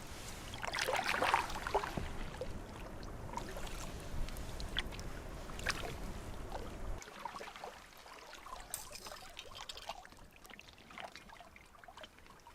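Canoe paddle strokes in the water: splashing and dripping with scattered light knocks, and a louder splash about a second in.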